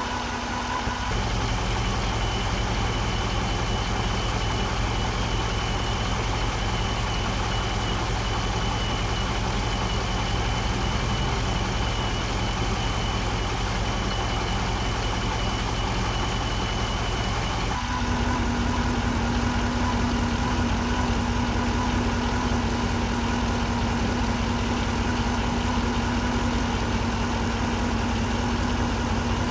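A 2008 Pontiac Grand Prix GXP's V8 idles steadily with a whine from its failing alternator; the idle is lowered because the dying alternator is harder to turn. Partway through, the pitch of the steady tones shifts.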